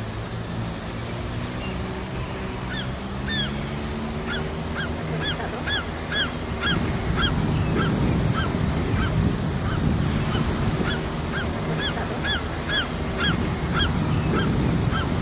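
A bird calling a rapid series of short, clipped notes, about two to three a second, starting a few seconds in, over a low rumble of wind-like noise that grows louder about halfway through.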